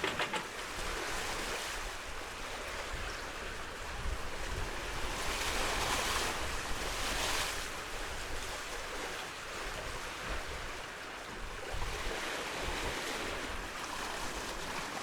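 Sea water washing past the hulls of a sailing catamaran moving at about 5 knots under sail, with wind rumbling on the microphone. The wash swells up about five to seven seconds in.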